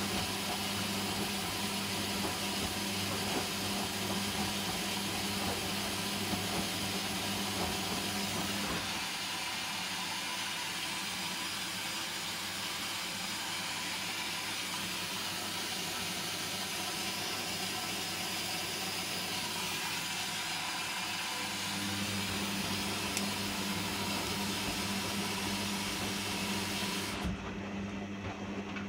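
Hoover Dynamic washing machine in its second rinse: the drum motor hums steadily over a constant hiss of water. The low hum drops away for a stretch in the middle and then comes back, and the hiss cuts off sharply near the end.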